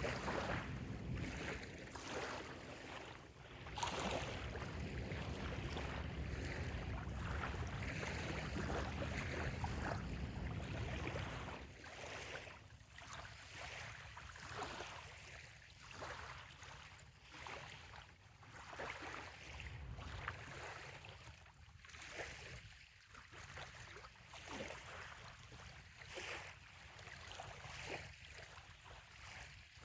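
Small waves lapping and splashing gently at the shoreline, in soft irregular ripples. For about the first twelve seconds a low, steady engine-like drone sits under the water; it then drops away, leaving only the lapping.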